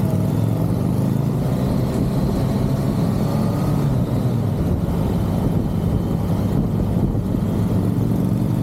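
Motorcycle engine running steadily at riding speed, with a continuous low rumble of engine, road and wind noise.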